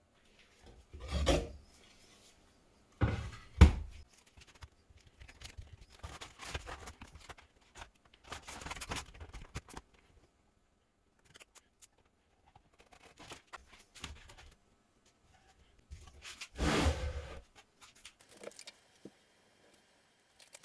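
Workshop handling noises: a few dull knocks, the sharpest about four seconds in and another longer one near the end, with quieter scraping and rubbing between them.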